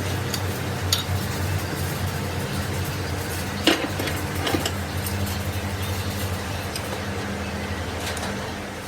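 Workshop sounds: a steady low machine hum, with light metal-on-metal clinks of tools or parts, three times; the loudest is near the middle.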